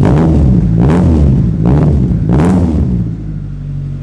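Car engine breathing through a freshly fitted 2.5-inch cat-back exhaust, revved in four quick throttle blips, then settling back to a steady idle about three seconds in.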